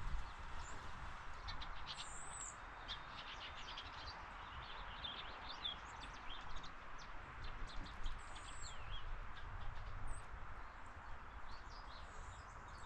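Small birds chirping, many short high notes with a few thin slurred whistles, over a steady background noise.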